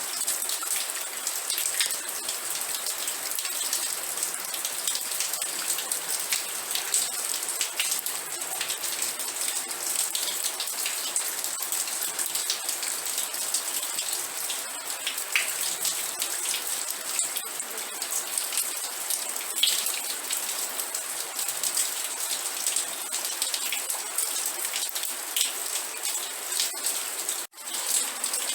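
Steady rain falling, a dense hiss full of individual drops pattering on a surface. The sound cuts out for an instant near the end, then resumes.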